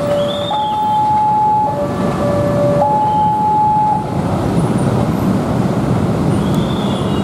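KAI Commuter electric train approaching, a steady rumble of running noise on the rails. Over it a two-tone warning signal alternates high and low about once a second and stops about four seconds in.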